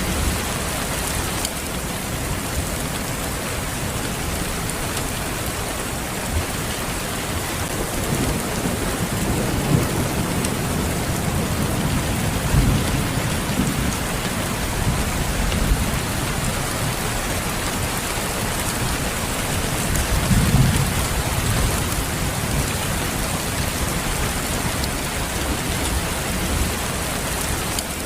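Steady rain falling, an even hiss, with low rolls of thunder rumbling up several times: around a third of the way in, again soon after, and about two-thirds through.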